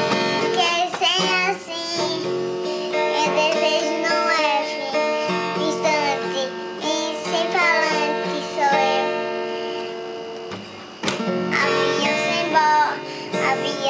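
A song with a high voice singing over acoustic guitar accompaniment.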